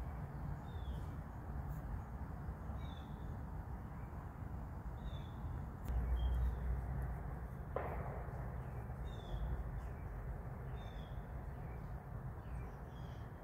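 Outdoor background with a small bird chirping briefly, a short high note every second or two. A low rumble comes about six seconds in and a single sharp knock a couple of seconds later.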